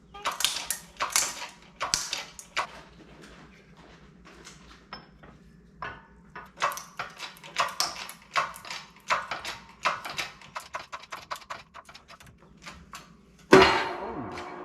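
Irregular metallic clanking and knocking of steel engine parts and tools being handled during the teardown of a diesel engine, with a louder metal bang near the end.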